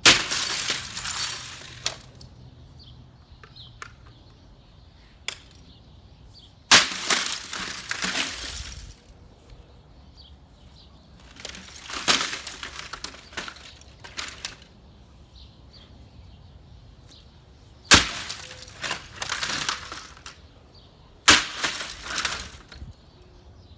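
30-pound sledgehammer smashing an Epson office printer: five heavy blows a few seconds apart, each followed by a second or two of the printer's housing cracking and clattering apart.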